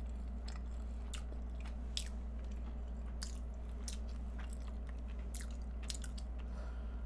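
Close-up mouth sounds of someone eating a flaky egg tart: chewing with scattered short wet clicks and smacks, over a steady low hum.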